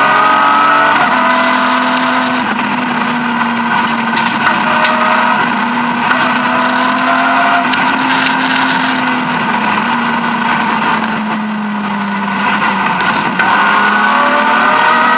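BMW E36 M3 rally car's straight-six engine heard from inside the cockpit, running hard at high revs: revs rise and shift about a second in, hold near-steady, ease off about two thirds through, then climb again under acceleration near the end.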